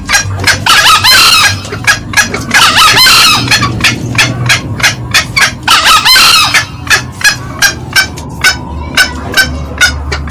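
Green junglefowl male and female calling: a run of short, sharp cackling notes, about three a second, with three longer crowing calls about a second, three seconds and six seconds in.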